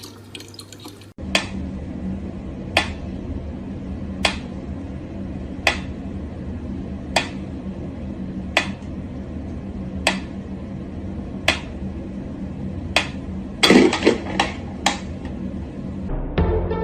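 Sharp taps, evenly spaced about one and a half seconds apart, over a steady low hum. Near the end there is a brief louder cluster of taps with a short sliding sound, and music comes in just before the end.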